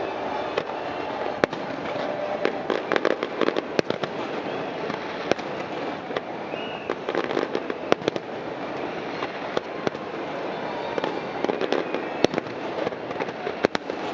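Fireworks bursting: many sharp bangs and crackles at irregular intervals, bunched in quick volleys, over a steady background din.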